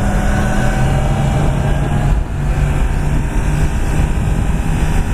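Yamaha R1 sport bike's inline-four engine running under way, its note holding fairly steady with a brief dip about two seconds in, over steady wind noise.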